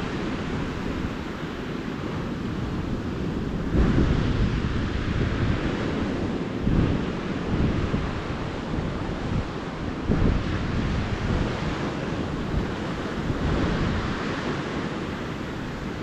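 Calm ocean surf washing onto a beach, rising and falling every few seconds. Wind buffets the microphone with a low rumble.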